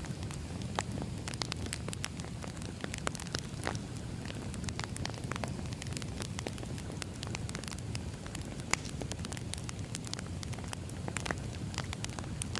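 Burning firewood: a log fire crackling and popping, with frequent sharp snaps over a steady low rumble of the flames.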